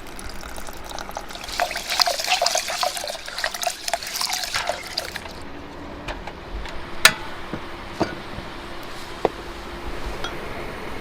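Water being poured and splashing for a few seconds, starting about a second and a half in. It is followed by three sharp knocks, the first the loudest.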